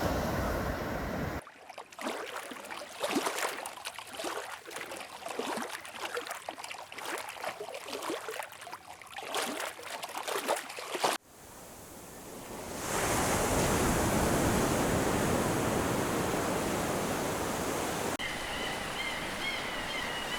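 Ocean surf and splashing water in edited segments: an irregular stretch of splashes and surges, then a steady wash of surf. Faint steady high tones sound over the surf near the end.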